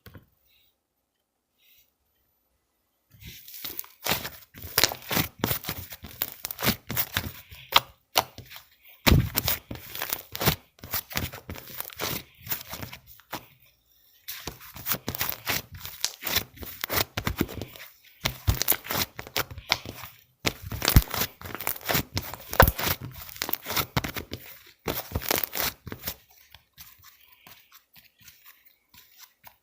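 Banana milk slime being squeezed, stretched and pulled apart by hand: dense runs of crackling, popping clicks in several spells with short pauses, tailing off to faint handling near the end.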